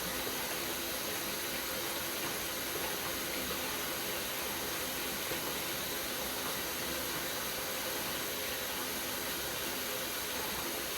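A steady, even hiss with a faint hum underneath, unchanging throughout.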